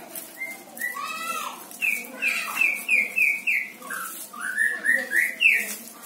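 A songbird calling in a quick string of clear whistled notes: a run of short falling notes, about three a second, then a second run that climbs in pitch.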